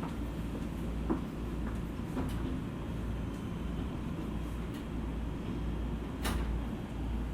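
E231-series electric multiple unit running along the line: a steady low rumble of wheels on rail, with a few light clicks early on and one sharp knock about six seconds in.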